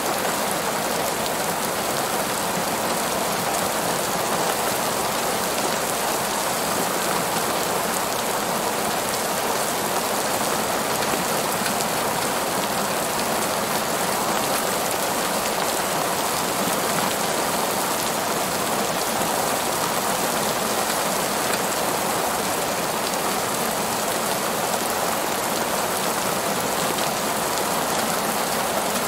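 Heavy rain falling on a paved parking lot: a steady, even hiss of rain with no breaks or single loud events.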